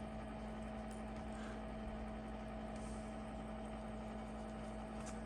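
Steady low hum with an even hiss: amplified background noise from a boosted recording. There is a faint tick about a second in.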